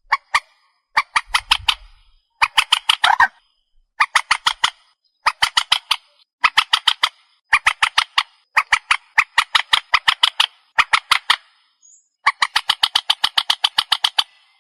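Grey-headed swamphen calling: runs of rapid, harsh clucking notes, five to ten at a time, repeated again and again with short pauses between runs.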